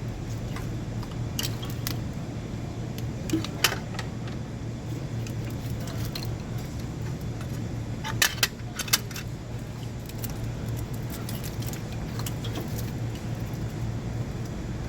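Metal hand tools and loose parts clinking and jangling as they are handled, with a couple of sharp clinks a few seconds in and a quick cluster of them around eight to nine seconds in, over a steady low hum.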